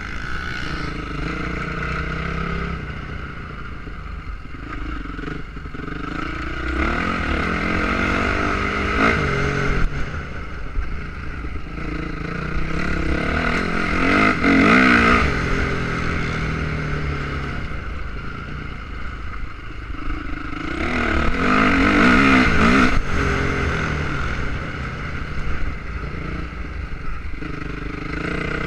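Motocross bikes running on a dirt track, their engines revving up and down as they go through the course. They pass loudest about halfway through and again about three quarters in, with wind rumbling on the microphone underneath.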